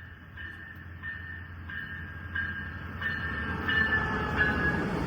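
Amtrak train led by a Siemens ALC-42 Charger diesel locomotive approaching, its rumble growing steadily louder. A bell rings throughout, about one and a half strikes a second.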